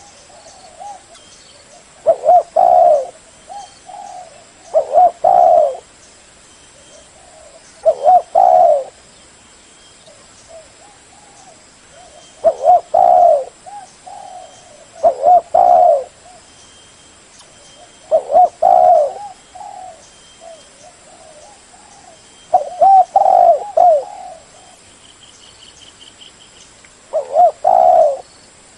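Spotted dove cooing: short phrases of a few low, hooting coos repeated every three to five seconds.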